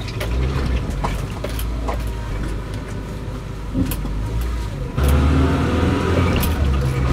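Suzuki Vitara's engine running with road noise, heard from inside the cabin while driving. It gets louder and fuller about five seconds in.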